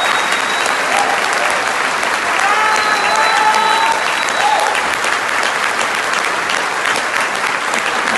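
Concert audience applauding steadily, with a few voices calling out over the clapping about a third of the way through.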